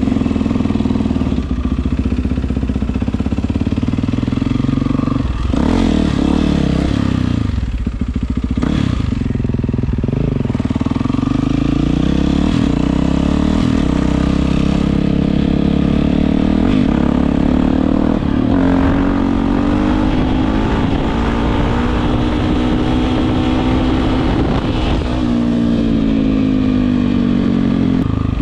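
Yamaha WR450F's single-cylinder four-stroke engine through an Akrapovič exhaust, running and revving, its pitch rising and falling several times and dropping away near the end.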